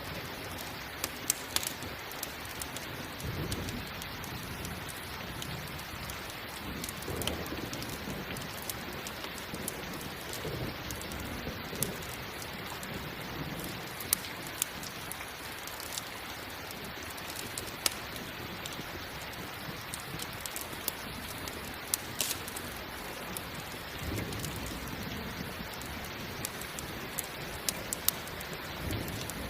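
Steady heavy rain with soft low rumbles of thunder rolling in several times. Sharp pops of a crackling campfire come through now and then.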